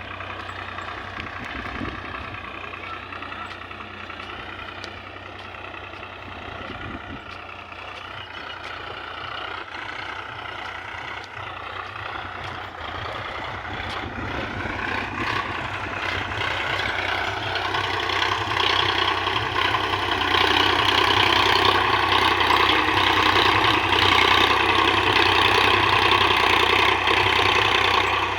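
Sonalika tractor's diesel engine running, its note wavering at first, then growing louder and slightly higher in pitch around halfway through and holding there.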